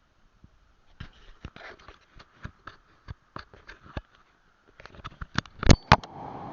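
A series of irregular sharp clicks and knocks, the two loudest near the end, then a steady rushing noise starts.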